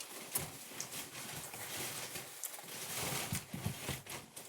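Close-miked chewing and wet mouth sounds of a person eating, with scattered small clicks.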